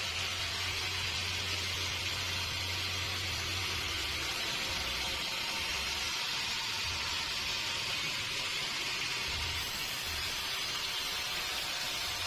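Sawmill machinery running: a steady hissing noise over a low hum, which turns uneven and comes and goes from about four seconds in.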